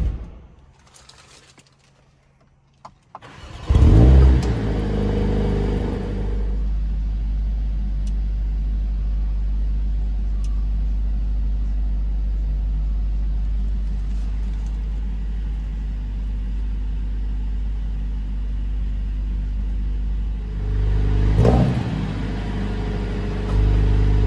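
Mercedes-AMG A45 S turbocharged 2.0-litre four-cylinder engine cold-starting. It catches about four seconds in with a loud flare and holds a high idle for a couple of seconds, then settles into a steady cold idle. It swells briefly near the end and finishes louder. A short knock comes at the very start.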